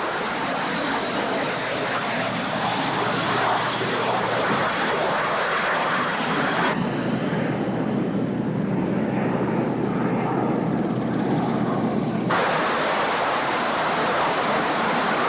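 A-4 Skyhawk jet engine running steadily in flight. About seven seconds in, the sound turns abruptly duller and lower for about five seconds, then switches back to the brighter roar.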